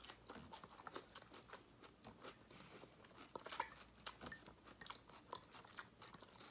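Faint, close-up chewing and crunching of a mouthful of raw salad vegetables, with small irregular clicks of a fork picking in a ceramic bowl.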